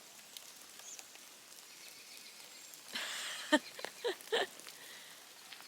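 Faint rain dripping in a forest, with a few short, sharp sounds about three to four and a half seconds in.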